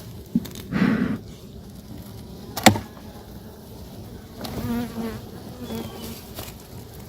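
Honey bees buzzing around an open hive, a buzz that wavers in pitch and swells as bees fly close, loudest about two-thirds of the way through. A single sharp click about a third of the way in stands out as the loudest moment.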